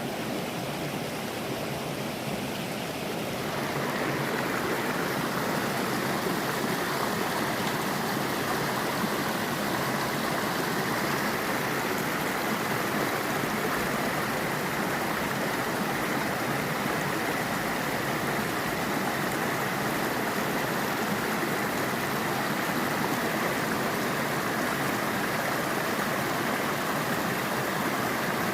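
Mountain stream water rushing steadily, growing a little louder about four seconds in.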